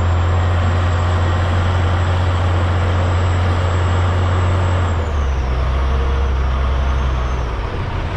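Cat 980 wheel loader's diesel engine revving hard with a high whine while it works its bucket over the truck bed, easing back to a lower pitch about five seconds in.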